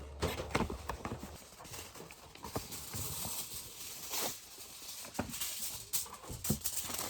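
Irregular light knocks and clicks of hard objects, a dozen or so spread unevenly, some close together.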